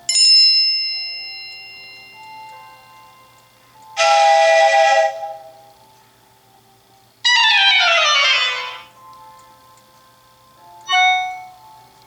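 A series of iOS 7 preset alert tones played one after another: a bell-like chime that rings out and fades, a short held chord about four seconds in, a chord sliding down in pitch a few seconds later, and a brief chime near the end.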